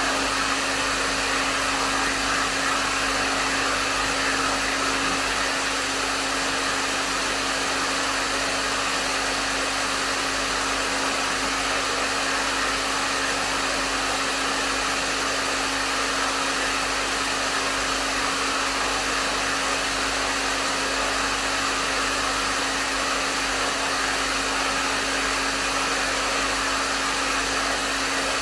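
Hair dryer running steadily at a medium setting: the even rush of blown air with a constant motor hum beneath it, with no changes.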